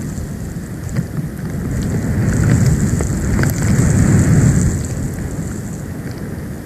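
Storm wind gusting over an outdoor nest-cam microphone: a low rumble that builds over a couple of seconds, peaks about two-thirds of the way through, then dies back, with scattered light ticks.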